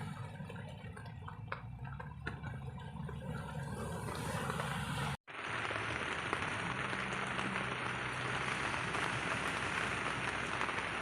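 Rain falling, lighter at first with scattered drips over a low hum; after a sudden cut about five seconds in, heavy rain gives a dense, steady hiss.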